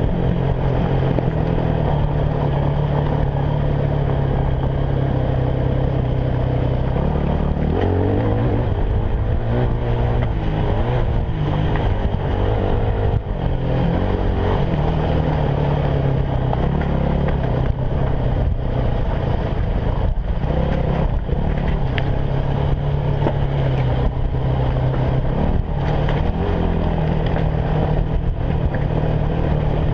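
Yamaha WR250F enduro motorcycle's single-cylinder four-stroke engine running under way. Its note rises and falls with throttle and gear changes, dipping about a quarter of the way in and again past the middle.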